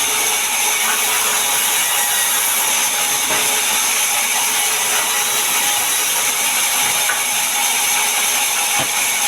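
Power saw cutting mahogany wood: a steady, continuous mechanical running noise with a faint hum, unchanging throughout.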